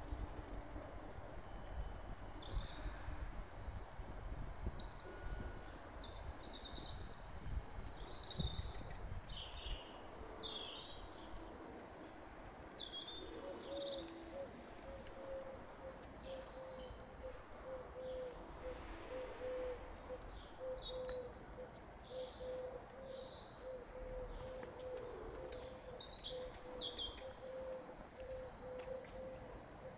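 Songbirds singing, with short high chirping phrases repeated throughout. A low rumble runs through the first third, and a faint steady hum comes in a little before halfway.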